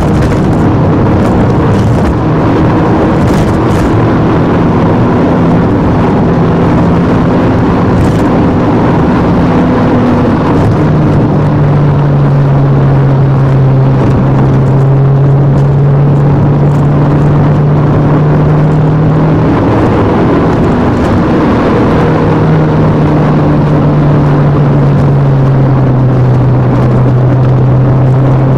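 Alfa Romeo 156 2.0 Twin Spark's four-cylinder petrol engine pulling hard at high revs, with loud tyre and road noise. Its note shifts in pitch a few times as the car changes speed.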